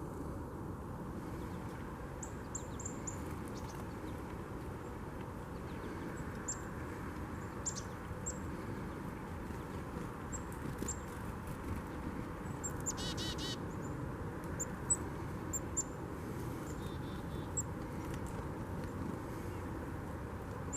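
Birds calling: scattered short, high chirps throughout, with a brief buzzy call about thirteen seconds in, over a steady background rumble.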